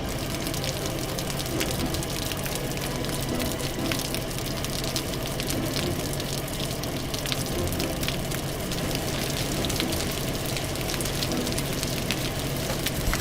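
Cartoon sound effect of a fire truck's hose spraying water: a steady rushing gush with a low steady hum under it and fine crackles throughout.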